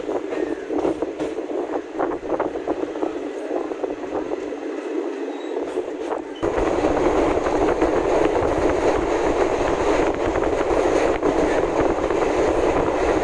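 A local DEMU train running, heard from inside a carriage: the steady clatter and rumble of the wheels on the rails, with scattered knocks. About six seconds in it turns suddenly louder and deeper.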